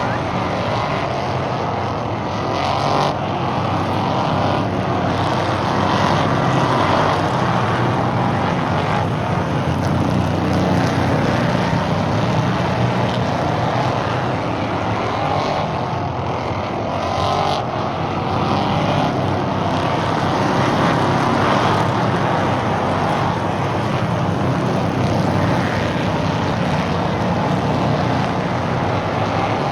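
Stock race cars circling an oval track: continuous engine noise with rising and falling pitch sweeps and swells in loudness every few seconds as cars go by.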